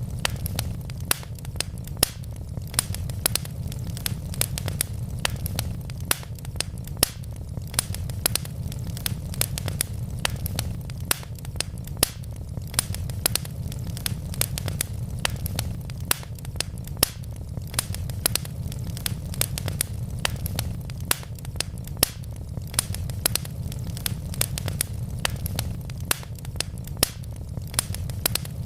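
Wood fire crackling, with frequent sharp pops and snaps over a steady low rumble of flame.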